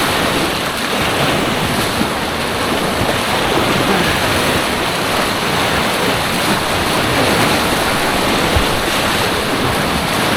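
Steady loud rush of white-water rapids on an artificial kayaking course.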